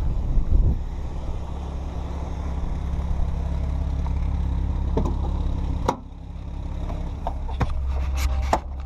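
Jeep Cherokee XJ's engine running steadily, with a few sharp clicks over it and a brief dip about six seconds in.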